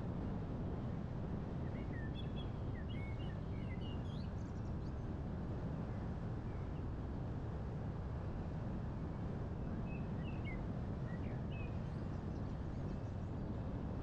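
Steady low rumble of a moving car's road and wind noise, with scattered short bird chirps in two brief clusters, a couple of seconds in and again about ten seconds in.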